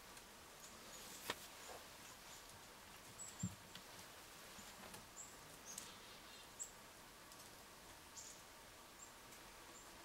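Faint outdoor quiet with a few brief, high chirps from small birds scattered through it, and two soft knocks, about a second in and about three and a half seconds in.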